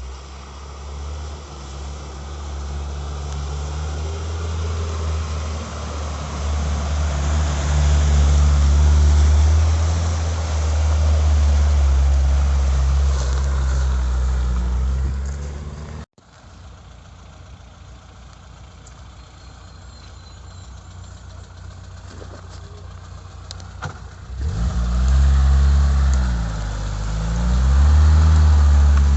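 LuAZ off-roader's VAZ-21083 four-cylinder engine working under load, its note swelling and easing. It cuts off abruptly about halfway through, then runs quieter, and near the end it is revved up and down twice.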